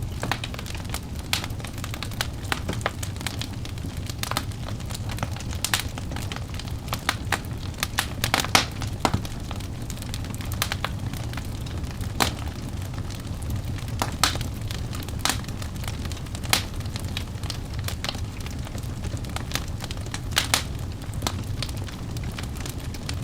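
Wood fire burning in a fireplace: a steady low rumble of flame with frequent irregular crackles and sharp pops from the burning logs.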